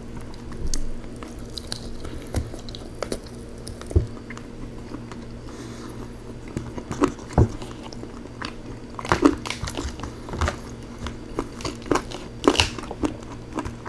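Close-miked eating of rotisserie chicken thigh: wet chewing with irregular smacks and clicks, thicker in the second half, as the meat is pulled off the bone by hand. A faint steady low hum runs underneath.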